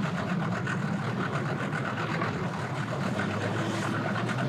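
Engines idling steadily, a low-pitched hum made of several steady tones.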